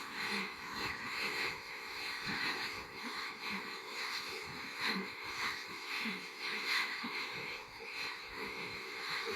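Synthetic AI voice making garbled, breathy vocal noises without recognisable words: a continuous hiss-like texture dotted with short low blips.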